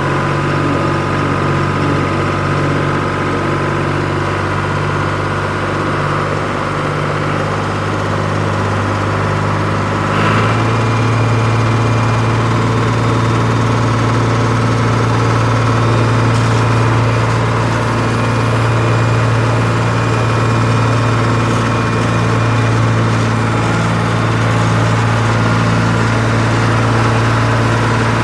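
Steady idling engine sound, low-pitched and even, that shifts to a deeper, louder note about ten seconds in.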